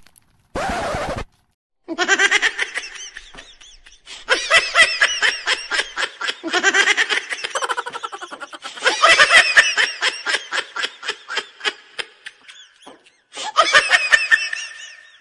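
Laughter in several long bouts of rapid, pulsing ha-ha sounds, after a short burst of hiss about half a second in.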